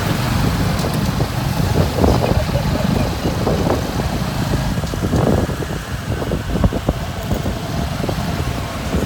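Motorbike taxi on the move: engine and road noise with a heavy low rumble.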